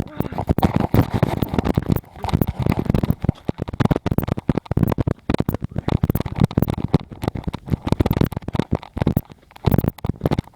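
Dense, irregular rustling, crackling and thumps of someone moving close to the microphone, with a low rumble of handling or wind noise.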